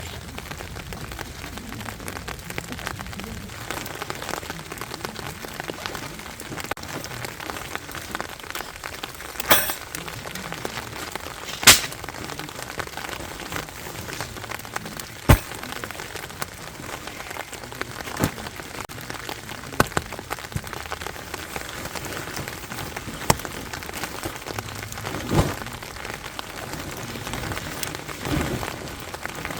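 Rain falling steadily on a tent, an even patter broken every few seconds by a louder, sharp tap of a heavier drop or drip.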